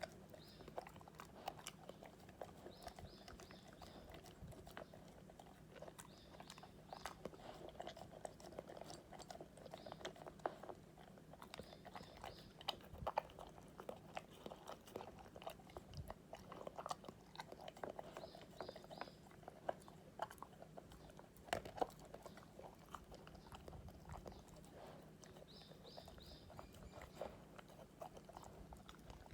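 Akita dog eating, chewing and crunching its food with many short sharp crunches throughout, over a faint steady hum.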